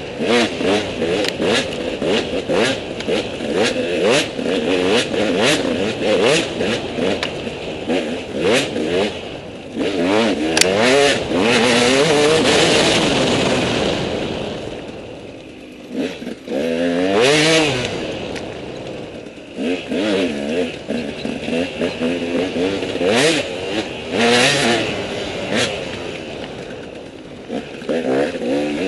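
KTM 200 EXC two-stroke single-cylinder enduro motorcycle engine being revved hard and eased off over and over as the bike is ridden along a rough trail, with frequent knocks and clatter. The engine backs off about halfway through, then picks up again.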